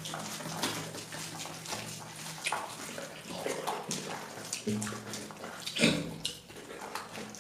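Wet eating sounds close to the microphone: a person eating rice and fish curry, with a series of short, irregular smacks and squelches.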